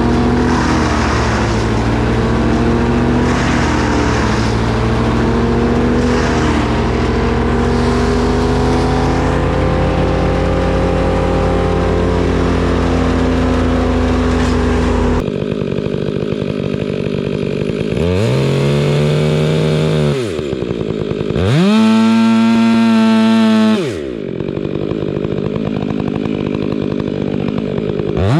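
Gas chainsaws running: about fifteen seconds of steady engine noise, then an abrupt change after which a chainsaw is revved twice in short bursts, its pitch climbing, holding, then dropping back each time.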